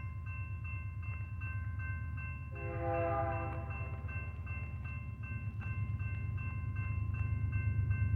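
Freight train passing with a steady low rumble and faint regular clicks of wheels over the rail. A short locomotive horn blast of about a second sounds about two and a half seconds in.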